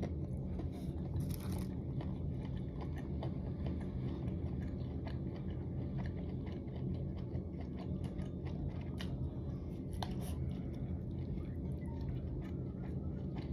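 A person chewing and biting mouthfuls of spicy dry hot pot close to the microphone, with scattered small wet clicks and crunches throughout, over a steady low room hum.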